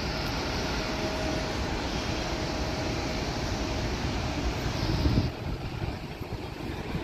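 Jet airliner engine noise, a steady rushing sound with a faint whine through it, swelling and then dropping off suddenly about five seconds in.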